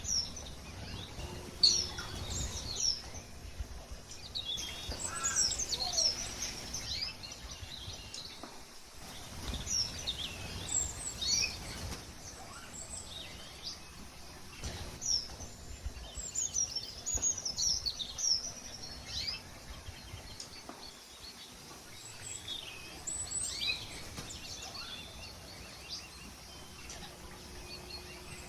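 Small aviary birds, canaries and finches, chirping and twittering in many short, quick notes that come in clusters, over a low background rumble.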